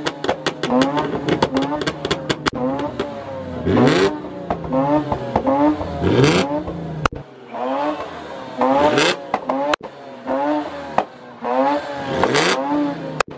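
A very loud car engine is revved hard again and again, its pitch rising and falling about once a second. Harsher, louder peaks come every two to three seconds.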